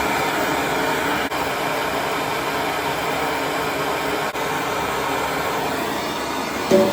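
A steady, even rushing noise, like air blowing through a machine, that starts abruptly and eases off near the end.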